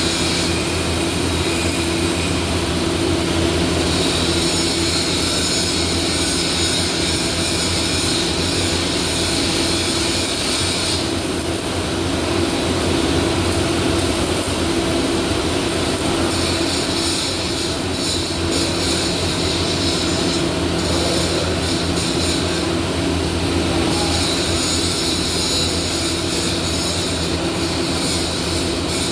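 Welding equipment running: a steady electrical hum under a continuous hiss, with the upper hiss shifting in strength several times.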